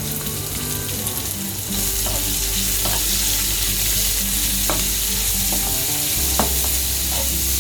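Sliced onions sizzling as they fry in hot oil in a pan, stirred with a spatula, with a few light scrapes. The sizzle grows louder about two seconds in.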